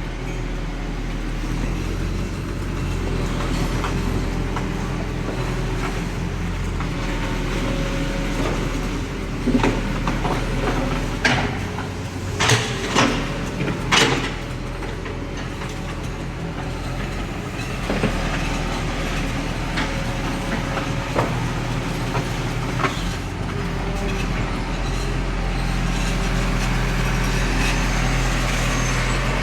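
Bulldozer's diesel engine running steadily under load, with a run of sharp metal clanks about a third of the way in and a few more later.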